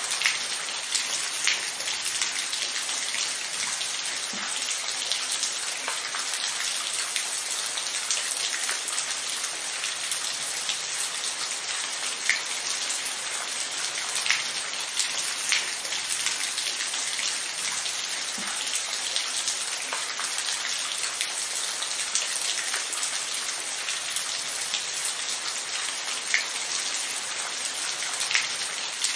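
Steady rain falling, with individual drops pattering close by as scattered sharp ticks over an even hiss.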